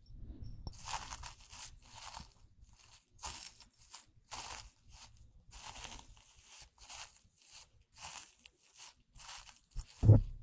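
Soft crunching and crinkling strokes, about one or two a second, from something being handled close to the microphone, with one louder low thump near the end.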